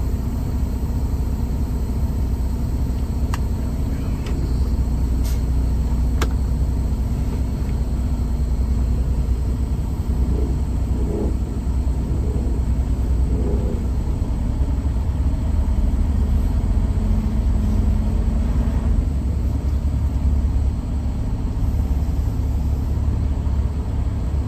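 Semi truck's diesel engine rumbling steadily from inside the cab as the rig pulls out, with a few faint clicks a few seconds in.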